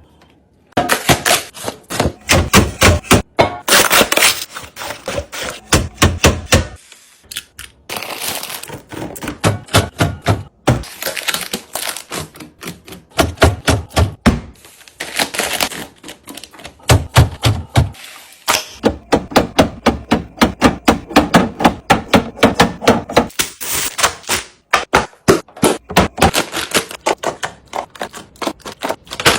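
Food and drink containers being set into a refrigerator and arranged: a dense, irregular run of clicks, taps and knocks, with brief pauses about seven and eighteen seconds in.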